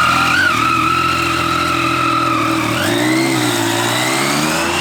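Motorcycle engine under way, its note holding steady and then rising as it accelerates about three seconds in.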